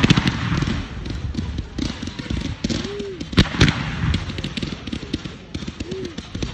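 Fireworks going off: dense crackling throughout, with two loud sharp bangs in quick succession about three and a half seconds in.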